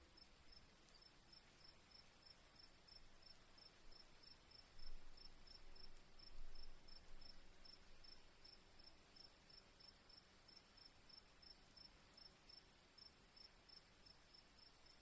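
Crickets chirping faintly: one continuous high trill, with another cricket pulsing steadily at about three to four chirps a second.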